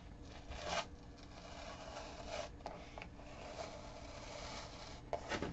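Siser adhesive vinyl being peeled off a painted canvas: a faint rasping rub broken by a few short, louder pulls.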